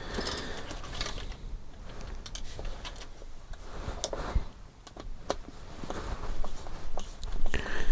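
Light clicks, taps and rustling of small plastic kit parts and hand tools being handled on a workbench, in an irregular scatter.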